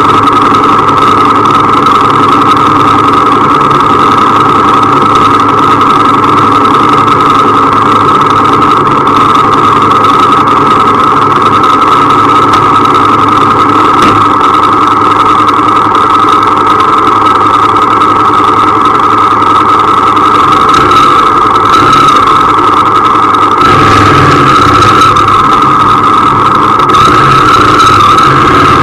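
Motorcycle engines idling steadily, then the bike carrying the camera pulls away with rising engine sound near the end.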